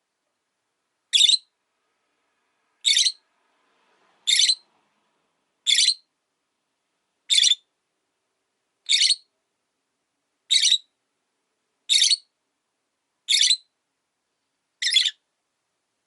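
Rosy-faced lovebird giving short, high-pitched single calls in a steady series, about one every second and a half, ten in all.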